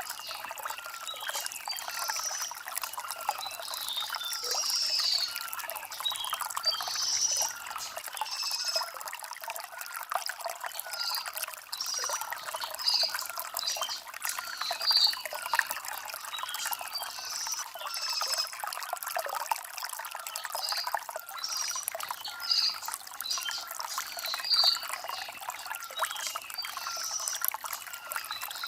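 Shallow stream trickling and gurgling over stones, a steady babble, with small birds chirping in short high calls every second or two.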